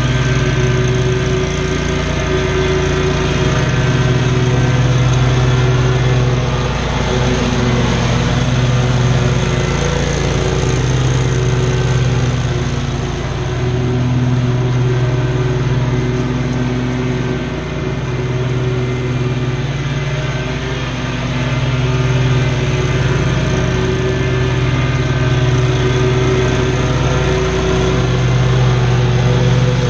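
Small gasoline engine of lawn equipment running steadily at working speed, its note dipping and recovering every few seconds as the load changes.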